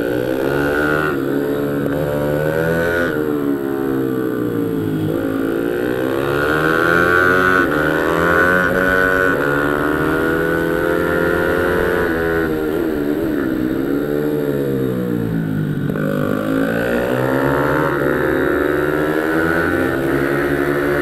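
Pit bike engine at speed on a track, its pitch repeatedly climbing as it accelerates and then falling back, with several sharp drops as the rider rolls off the throttle.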